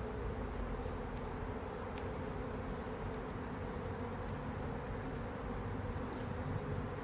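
Honey bees buzzing steadily around an opened hive.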